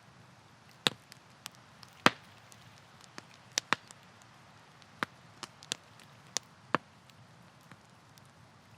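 Campfire wood crackling: irregular sharp pops and snaps, a few louder ones among many small ticks, over a faint steady hiss of the burning fire.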